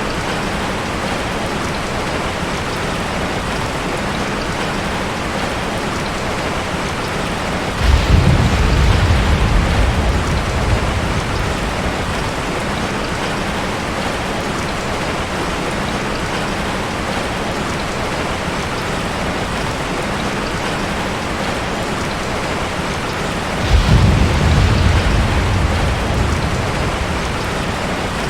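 Heavy rain drumming steadily on a tin roof, with two rolls of thunder, one about eight seconds in and one near the end, each starting suddenly and fading over a few seconds.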